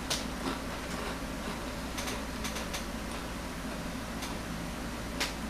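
Scattered crisp crunches and clicks of a Doritos tortilla chip being chewed, about seven over the stretch with the loudest near the end, over a steady low hum.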